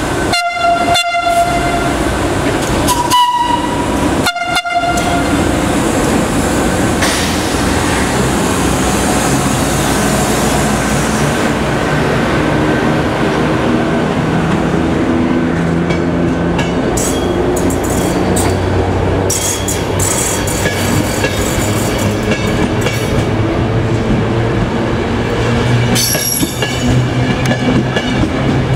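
Two-tone horn of an FS E656 electric locomotive sounding three short blasts, low, high, low, as the train moves off. A train of couchette coaches then rolls past with a steady clatter of wheels over the rail joints and some high wheel squeal.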